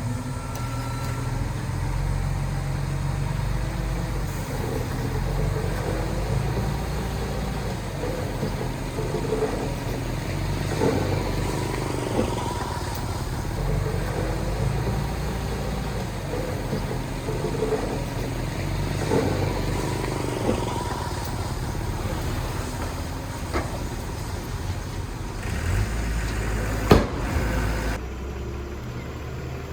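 Heavy diesel earthmoving machinery running steadily, with scattered knocks and one sharp clank near the end.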